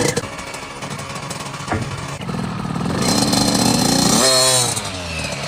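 KTM 50 SX's small two-stroke single-cylinder engine running. It is revved up about three seconds in, then the pitch falls back as the throttle is let off.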